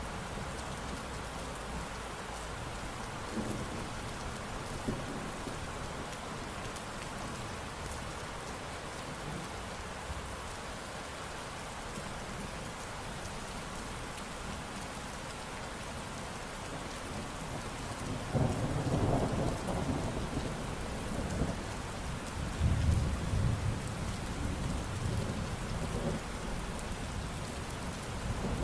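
Steady rain falling, with thunder rumbling low and rolling in about two-thirds of the way through.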